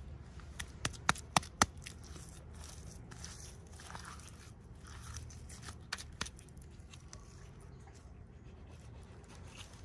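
Unboxing packaging being handled by hand: about five sharp clicks in the first second and a half, then soft rustling and crinkling, with two more clicks around six seconds in.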